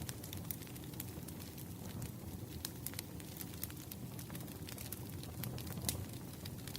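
Wood fire burning: a steady low rumble of flames with irregular sharp crackles and pops from the burning logs, one louder pop about six seconds in.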